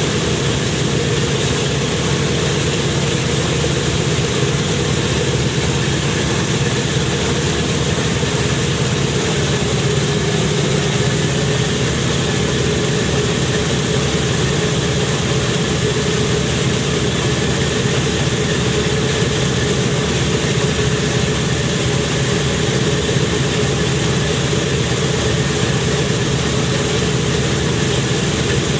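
An engine idling steadily at a constant pitch, with no revving.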